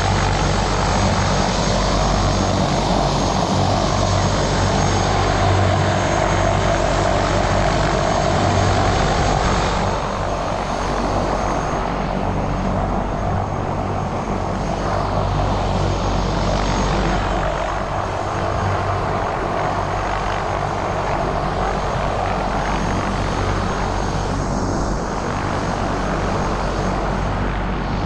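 Helicopter in flight: a steady, loud drone of rotor and turbine with a deep low throb underneath; the higher hiss eases a little about ten seconds in.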